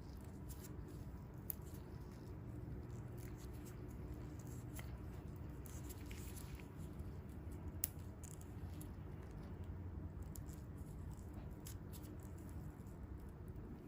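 Faint, scattered light ticks and crackles over a steady low hum: close handling sounds of hands working on bare feet during a foot peel, with two sharper ticks, one early and one just past the middle.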